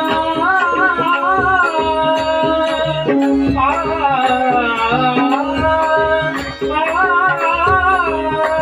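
Traditional Marathi bhajan music: a voice holds and bends long wordless notes over steady accompanying tones and a hand-drum rhythm.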